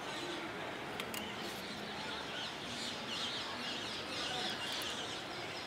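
Many small birds chirping over a steady outdoor background noise, the chirping busiest in the middle, with a faint click about a second in.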